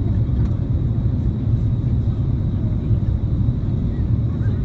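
Steady low rumble of an Airbus A330-300 airliner in flight as heard inside the cabin: engine and airflow noise, with a faint thin high whine running through it.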